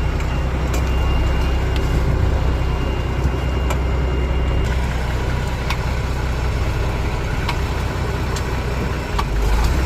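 An engine running steadily with a low, even drone, and a few faint clicks over it.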